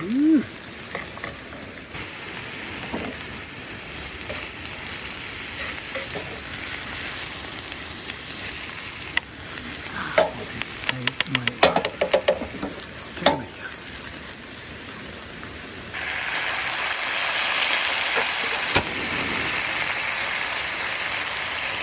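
Onion frying in a pan, a steady sizzle with a quick run of clicks about halfway. The sizzle grows louder about two-thirds of the way in.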